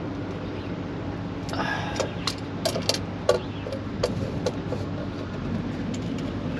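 Several sharp metallic clicks and clinks of hand tools working a steel brake line and its fitting, over a steady low engine hum.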